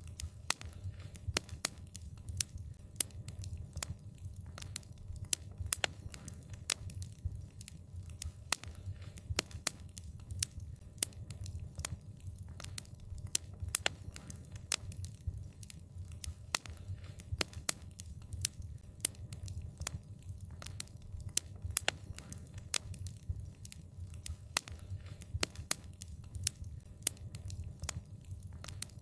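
Wood fire crackling: many sharp, irregular pops and snaps over a low steady rumble of burning.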